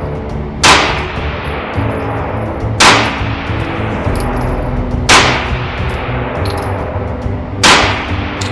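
Four single shots from a Sig Sauer P365XL 9mm pistol, spaced about two to two and a half seconds apart, each with a brief ringing tail.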